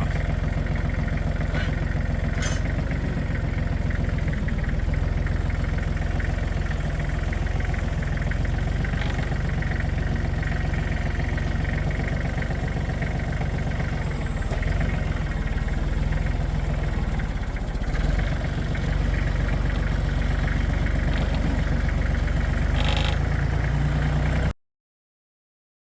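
Tractor engine running steadily, then stopping suddenly near the end.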